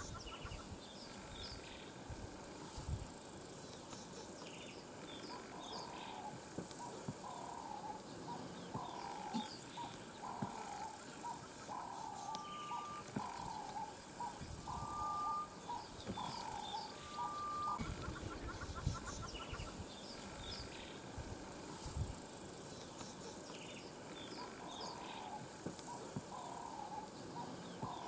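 Wild birds in the bush: one bird calls in a long run of evenly repeated notes for about twelve seconds, stops, then starts again near the end. Fainter chirps and an insect buzz come and go underneath.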